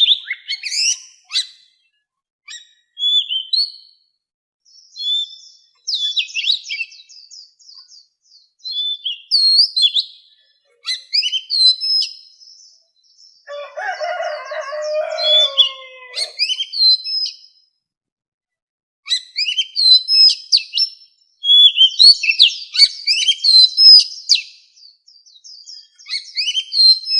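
Oriental magpie-robin singing: varied, high whistled phrases broken by short pauses, with a lower, rougher stretch of notes about halfway through.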